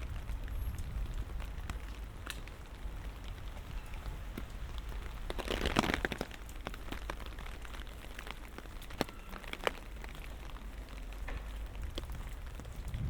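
Light rain falling, with a steady patter and scattered sharp drop clicks. About halfway through there is a brief louder rush of noise lasting under a second.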